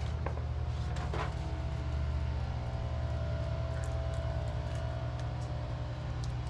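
Steady low mechanical drone from a running machine, with a fine, even pulsing, and a couple of brief scrapes near the start.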